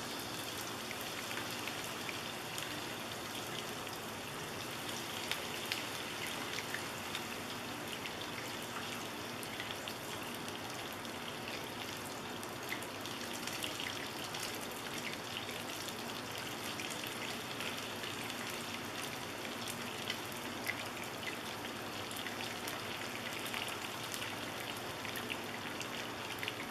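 Cornstarch-battered squirrel pieces flash-frying in hot oil in a cast iron skillet: a steady crackling sizzle with many small pops.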